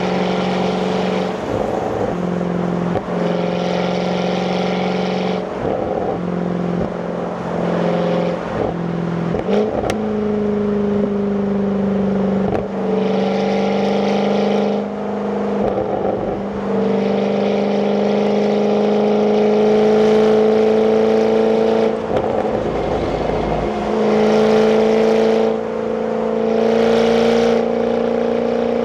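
Jaguar F-Type's supercharged 5.0 V8 on its stock exhaust, running under light throttle at low speed. Its note climbs slowly and is broken a few times by brief interruptions. Heard from inside the cabin.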